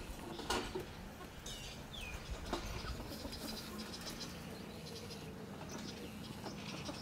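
Birds chirping in short calls, two of them sliding down in pitch about a second and a half in, with scattered sharp clicks, over a low, uneven rumble of wind on the microphone.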